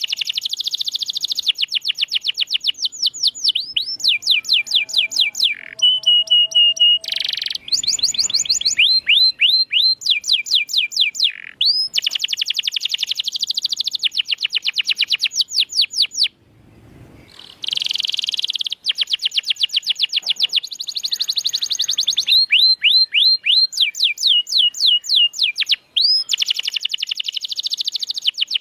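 Domestic canary singing a long, fast song made of rolling trills: runs of quick falling whistled notes repeated many times a second. The song changes to a new trill every second or two, with a couple of held notes, and pauses briefly about sixteen seconds in.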